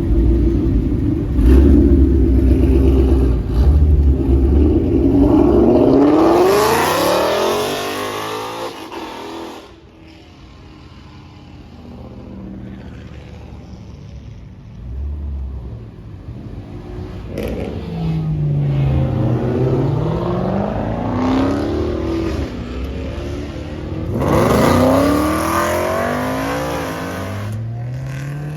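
Car engines revving hard and accelerating. A deep rumble opens, then the pitch climbs steeply about six seconds in. After a quieter stretch, engines rise and fall again, with another strong climb near the end.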